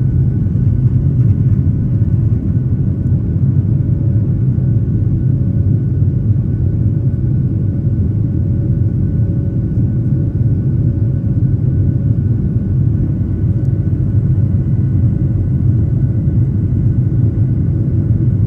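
United airliner's jet engines running as a steady low rumble, with a few faint steady whining tones above it.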